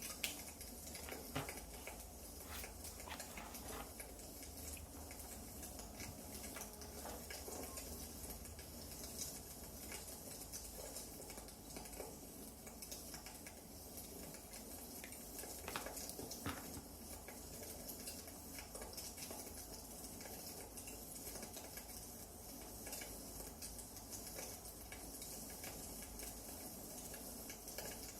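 Wood fire crackling faintly: logs burning with scattered small pops and snaps over a soft hiss, one sharper pop just after the start and another about halfway through.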